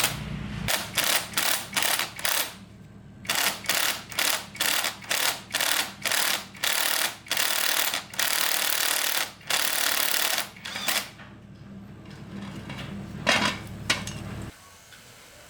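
A hand tool scraping in repeated strokes, about two a second, with a few longer strokes in the middle, over a steady low hum that stops near the end.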